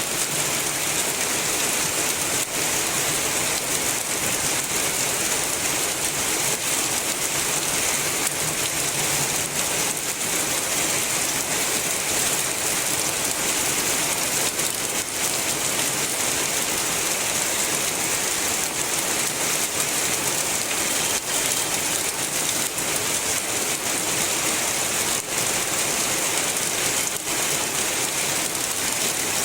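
Heavy, steady rain falling, a dense even hiss with scattered sharper drop ticks.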